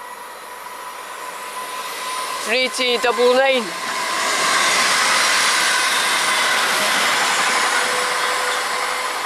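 ScotRail Class 380 electric multiple unit approaching and passing at speed, picking up speed as it comes. Its rushing wheel and motor noise swells to a peak about halfway and eases near the end. A brief pitched, wavering sound, about a second long, cuts across it about two and a half seconds in.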